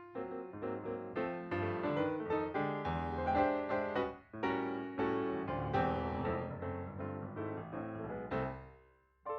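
Background piano music, a flowing run of notes that dies away near the end.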